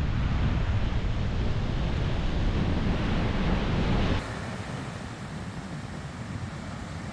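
Waves breaking on the shore with wind buffeting the microphone, a heavy low rumble. About four seconds in it cuts off abruptly to a quieter, steady noise.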